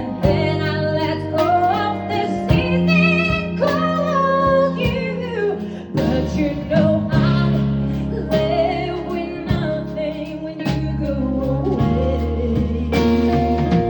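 Live jazz-pop band playing, with a female voice singing over the band.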